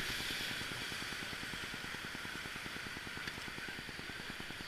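Steady rushing hiss of river ambience around a raft that has stopped paddling, slowly fading.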